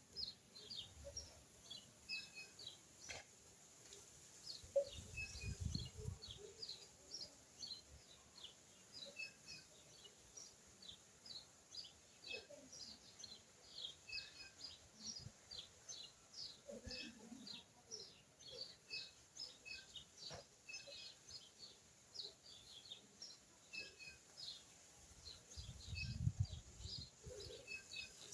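Small birds chirping outdoors: a quick, faint run of short high chirps, several a second, with two low rumbles, one early and one near the end.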